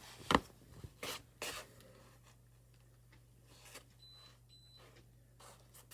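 Hand-handling noises of screws and mounting hardware: a sharp click near the start, then two short scrapes and scattered small ticks, with two faint brief high beeps about four seconds in.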